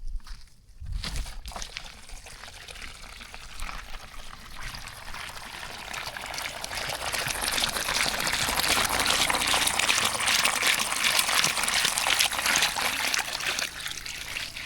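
Water running and pouring, growing louder over several seconds to a steady full flow, then easing off near the end.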